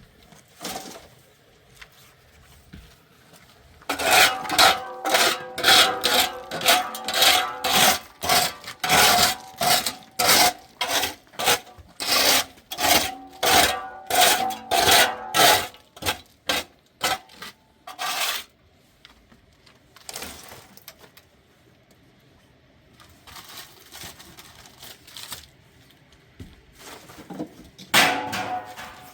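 Rhythmic scraping strokes, about two a second, for around fourteen seconds, with a faint ring under them; a shorter run of strokes near the end.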